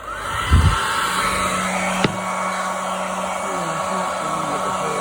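Hair dryer switched on and running at full speed, a steady blowing rush with a whine that rises over the first half second as the motor spins up. A sharp click about two seconds in.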